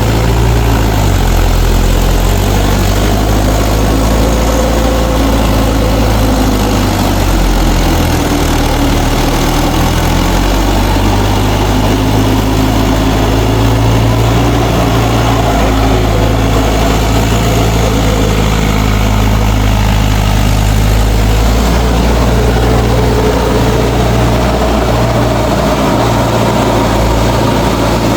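Mahindra 4WD DI tractor's diesel engine running steadily, its low engine note shifting slightly in pitch a couple of times.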